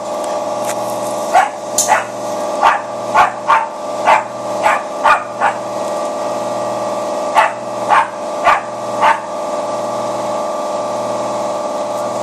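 A puppy barking excitedly, short sharp barks in quick bursts that stop about three-quarters of the way through, over the steady whine of a power tool throwing sparks off a car's exhaust.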